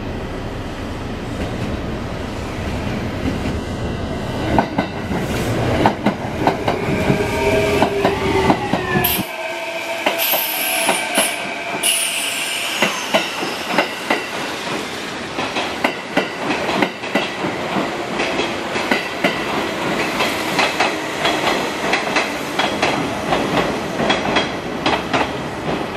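Kintetsu electric train, set 9329, pulling into a station. A steady rumble is followed by high squeals sliding down in pitch about ten to twelve seconds in, then the wheels click over rail joints in a quick, irregular rhythm as the cars pass close by.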